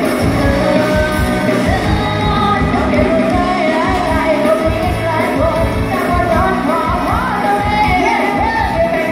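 Live amplified band music with a singer: a sung vocal line over a steady beat and bass, played through a PA sound system.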